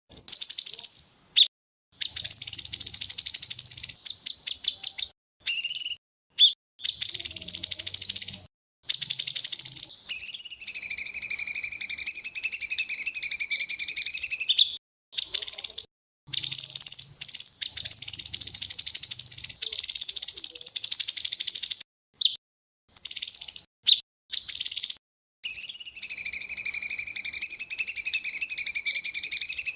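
Loud, rapid songbird song played as a masteran training track: fast chattering bursts and trills, broken by abrupt silent gaps, with two long sustained high trills, one about ten seconds in and one near the end.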